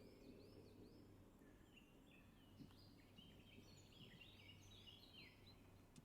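Faint birdsong: many quick chirps and short whistled notes, busier in the second half, over a low steady hum.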